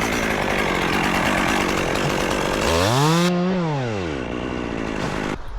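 Gas chainsaw cutting through wood at full throttle, then about halfway through its engine pitch rises and falls back as the throttle eases off.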